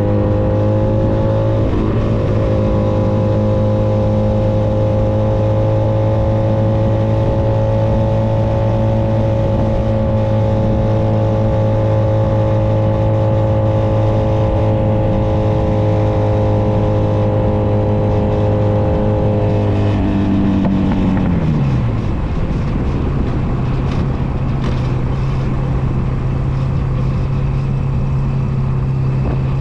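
Honda Nighthawk 250's air-cooled parallel-twin engine running at a steady cruise under a haze of wind and road noise. About two-thirds of the way through, the throttle is rolled off and the engine note drops quickly to a low, steady idle.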